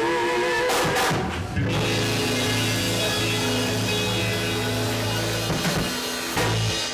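Live gospel band music: a singer's held note with vibrato ends about a second in, then the band holds one steady chord until near the end.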